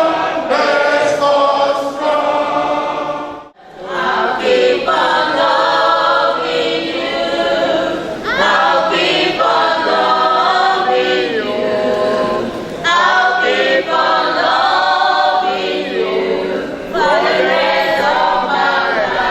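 A group of voices singing together, with a brief gap about three and a half seconds in.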